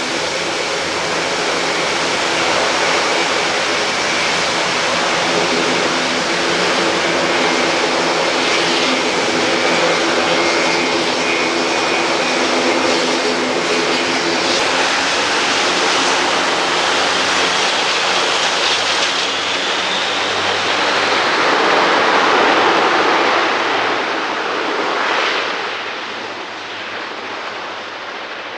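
Airbus A400M's four turboprop engines running, a steady propeller hum with several tones over a broad rushing noise. The rush swells to its loudest as the aircraft passes, a little past two-thirds of the way through, then fades away.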